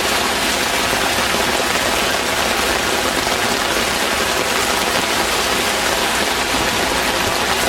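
Heavy rain falling steadily: a loud, dense, even hiss that does not let up.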